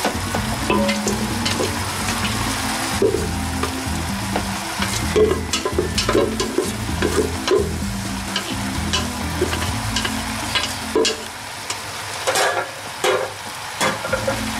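A wooden spatula stirring and scraping pasta through sauce in a frying pan, with irregular knocks against the pan and a light sizzle underneath.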